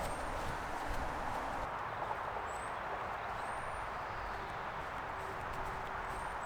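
Steady outdoor background noise, with a few footstep-like clicks in the first second or two and several short, high, rising chirps from a small bird, one of them right at the end.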